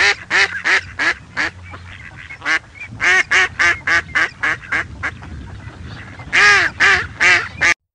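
A duck quacking loudly in quick series: a bout of about five quacks, a short pause, about seven more, then a final bout of four in which the first quack is drawn out longest.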